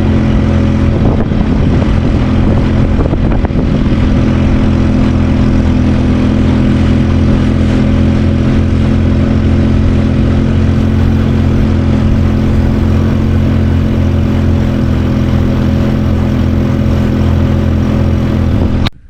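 Boat motor running at a steady speed under way, a constant engine hum with a broad rush of noise over it. It cuts in and out abruptly.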